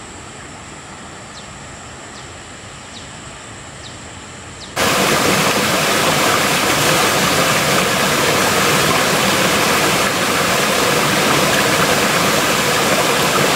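Quiet outdoor background with a few short high chirps, then, about five seconds in, an abrupt switch to a loud, steady rush of falling water.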